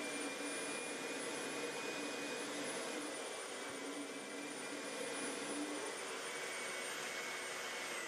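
Drainvac central vacuum system running steadily during wet carpet cleaning: a continuous rushing suction with a thin high whine on top.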